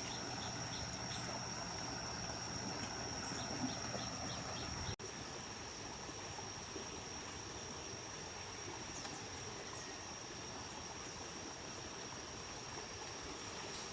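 A stream's water running as a steady hiss, with a constant high whine over it. The sound jumps abruptly about five seconds in and then carries on a little quieter.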